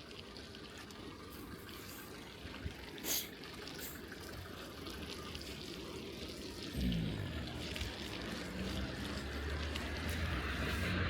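Bicycle tyres running through wet snow and slush, with a single sharp click about three seconds in. From about seven seconds a car's engine hum comes in and grows steadily louder as the car approaches.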